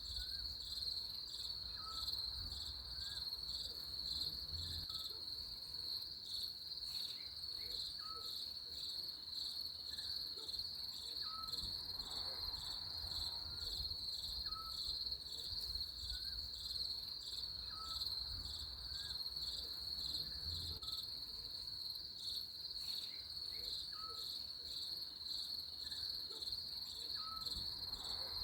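Crickets chirping in a steady, dense chorus, with a short faint higher call repeating every second or two.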